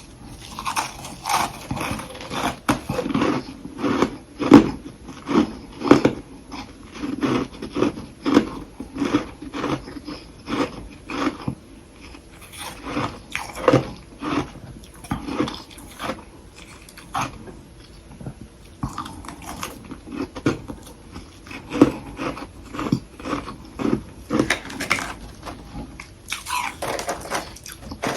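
Soft humidifier frost sticks being bitten and chewed: a steady run of soft crunches, about two a second, thinning out briefly about two-thirds of the way through.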